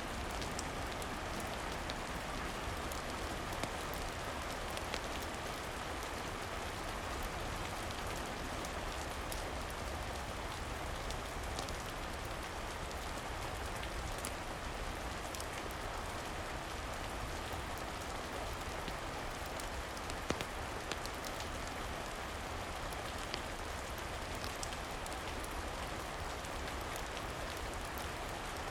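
Steady rain falling, an even hiss with scattered small sharp ticks and pops.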